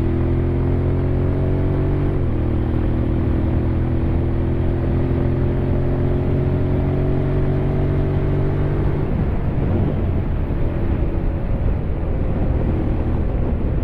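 Honda X-ADV 750's parallel-twin engine pulling under acceleration, its note slowly rising, then dropping suddenly about two seconds in as it shifts up a gear. About nine seconds in the engine note fades away as the throttle eases off, leaving wind and road rush.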